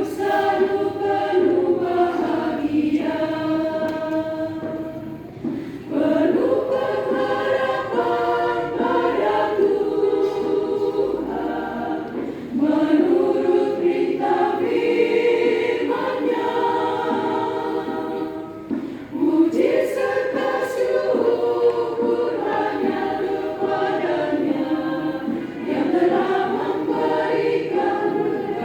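Church congregation choir singing in several voices, in long held phrases that break for a breath about every six to seven seconds.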